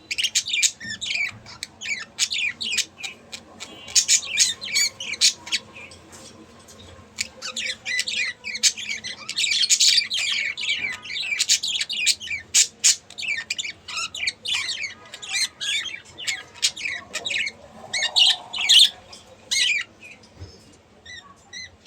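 Budgerigars chattering: a busy run of rapid chirps, clicks and warbles, easing off briefly about six seconds in before picking up again.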